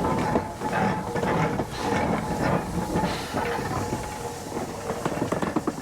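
Steam train on the move, with wheels clattering over the rails and steam hissing.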